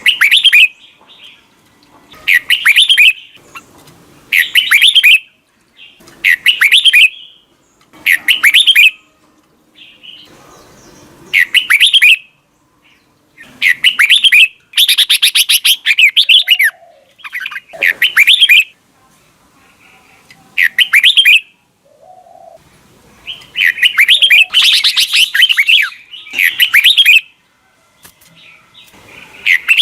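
Red-whiskered bulbul singing loud, short chirping phrases about every two seconds, with two longer, fuller phrases around the middle and near the end.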